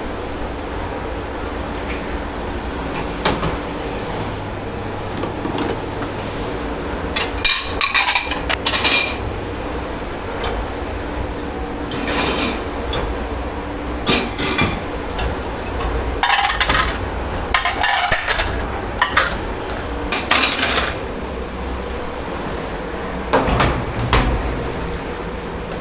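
Dishes, pots and cutlery clattering as they are handled and stacked in a commercial dish pit, in several short bursts of sharp clinks and knocks, over a steady rumble and hum of kitchen machinery.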